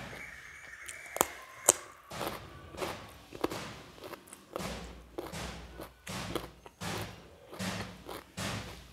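Close-up chewing of a mouthful of food: two sharp crunches about a second in as a raw carrot slice is bitten, then steady, wet chewing at about three chews every two seconds.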